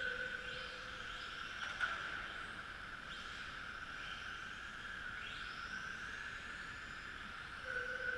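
Electric motors of several Tamiya TT-01E RC trucks whining as they race, the pitch sweeping upward again and again as cars accelerate. There is one sharp knock about two seconds in.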